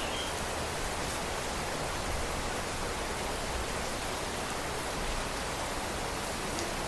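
Steady rain falling, a dense even hiss with no breaks or swells.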